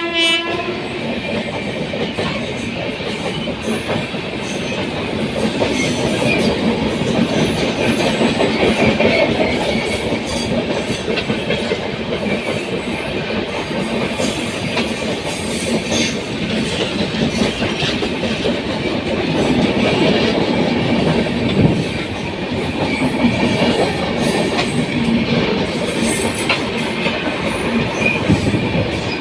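Swarna Shatabdi Express passenger train running past, a continuous rush of coaches with wheels clattering over rail joints. The tail of a horn blast sounds right at the start.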